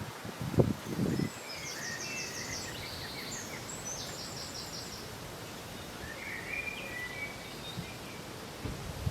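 Wind blowing steadily through a field of crops, with a couple of low gusts buffeting the microphone about a second in. A small bird sings high, fast trilling phrases through the middle.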